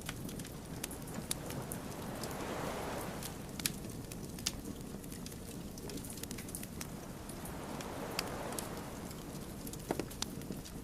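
Wood fire crackling, with irregular sharp pops and snaps over the steady low rumble of the flames. The flames swell twice in a soft rush, a few seconds in and again near the end.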